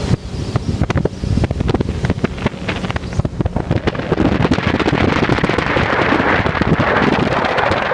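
Wind buffeting the microphone of a moving motorcycle, crackling and popping over the low rumble of the bike and the road. About halfway through the buffeting gives way to a steadier, brighter rush of wind.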